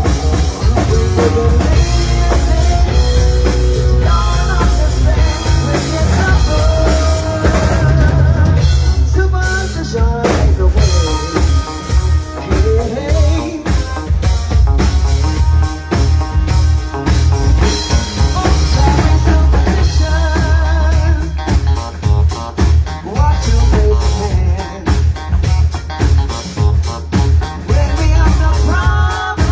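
A band playing a song, with a drum kit keeping a steady beat under melodic lines.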